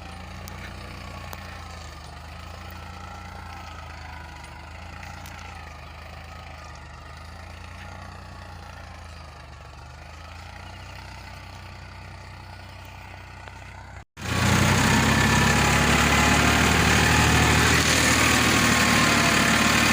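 Farmtrac 45 EPI tractor's diesel engine running steadily. About fourteen seconds in the sound cuts off for an instant and comes back much louder and closer, with a strong hiss over the engine.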